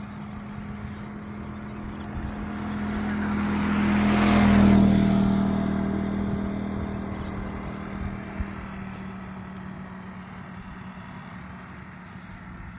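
A motor vehicle passes by, growing louder to a peak about four to five seconds in and then fading away, over a steady engine hum.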